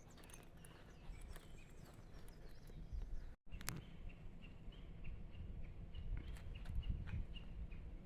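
Footsteps on a trail with faint birdsong. After a short break, a small bird repeats a short high note about three times a second.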